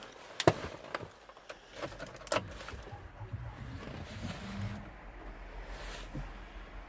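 Sharp clicks and knocks from a car's door and controls, the loudest about half a second in. About three seconds in a low steady hum starts as the car is readied for a cold start.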